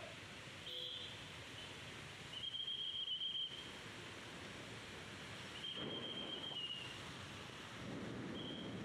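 Steady hiss of heavy rain and wind. Over it, a high, steady-pitched note sounds four times; the one about three seconds in is the loudest.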